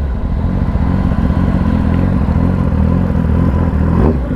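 Kawasaki ZX-10R's inline-four engine running steadily at low revs after slowing down, with one brief dip and rise in pitch about four seconds in.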